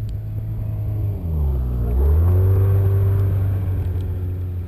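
Snowmobile engine running steadily; a little over a second in its pitch dips briefly, then climbs and holds higher as it revs up and gets louder.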